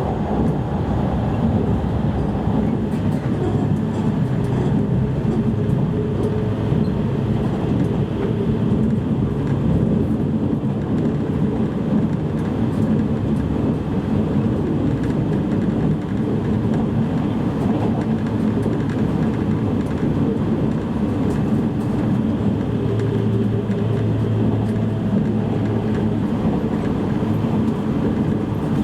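JR East E653 series electric train running, heard from inside a motor car: a steady rumble of wheels on rail with a low hum that strengthens about two-thirds of the way through.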